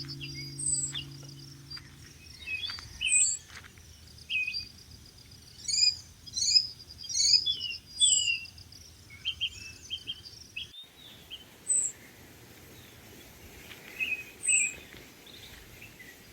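Several birds chirping and calling: a short high note repeated every second or two, with a busy run of chirps and whistles in the middle and a quick trill at the start.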